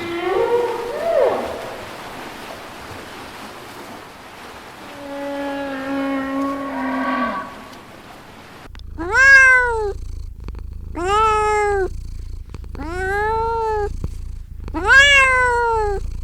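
A cat meowing over and over: five loud, rising-then-falling meows about two seconds apart, after two quieter, longer animal calls in the first half.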